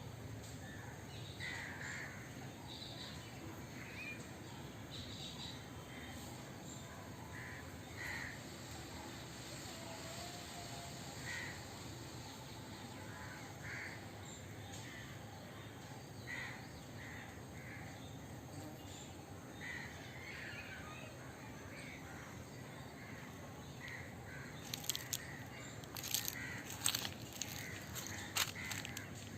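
Birds calling outdoors: short calls repeated every second or two over a steady low background hum, with a quick run of sharp clicks in the last few seconds.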